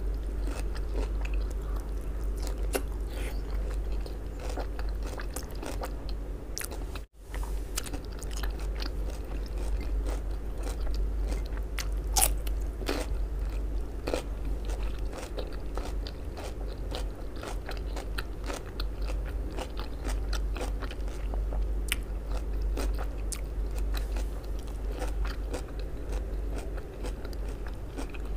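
Close-miked chewing of crisp raw shredded cabbage: irregular crunches and wet mouth clicks over a steady low hum, with a brief dropout about seven seconds in.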